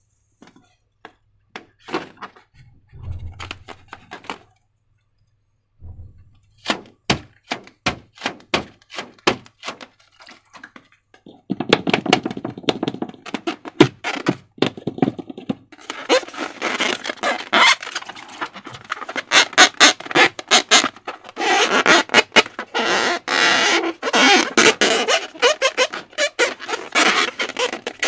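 Slime being handled by hand. At first there are scattered separate clicks and taps with short pauses. From about eleven seconds in come dense, continuous sticky squelching and crackling.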